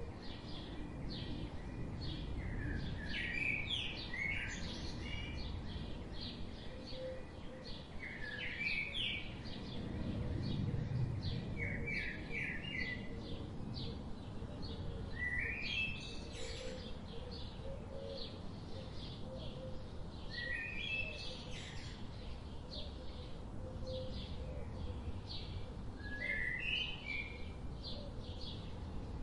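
Birds chirping in short bursts of a few quick notes every few seconds, over a steady low background rumble.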